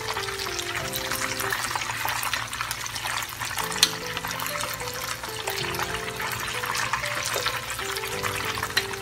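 Chicken strips deep-frying in oil on a low flame: a steady sizzle and crackle of small popping bubbles, with one short tap about four seconds in. Soft background music with held notes plays underneath.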